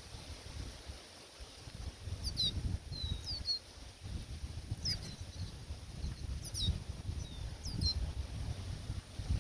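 Small birds chirping, a scatter of short, high, falling call notes in loose groups, over the low rumble of wind on the microphone.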